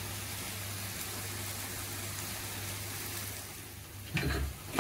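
Onion-tomato pav bhaji masala with peas sizzling steadily in oil in a metal kadai, fried to the stage where the oil separates at the edges. Near the end a metal spatula scrapes and knocks against the pan.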